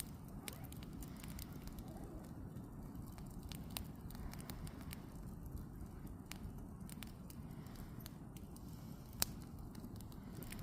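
Firewood burning in a fire pit, crackling with irregular sharp pops over a low, steady rumble of the fire. One louder pop comes about nine seconds in.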